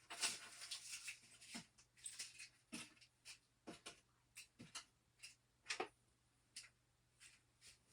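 Faint, scattered light knocks and clicks, about a dozen of them, with a scraping sound in the first second and a half.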